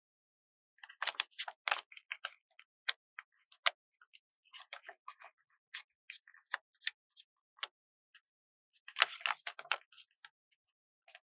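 Stickers being handled close to the microphone: sharp crisp ticks and short crackles as they are peeled from their backing sheets and pressed down, with silences between. A longer, denser crackle comes about nine seconds in.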